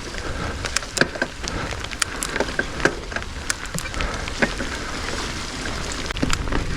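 Riding noise on a wet dirt trail: tyres rolling under a steady low rumble, with frequent sharp clicks and knocks as the rider goes over bumps.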